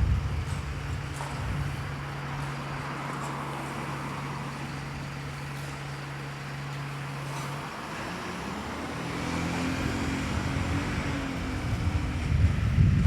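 Road traffic in a town centre. A vehicle engine hums steadily, then stops about eight seconds in, and another vehicle's rumble grows louder near the end as it comes closer.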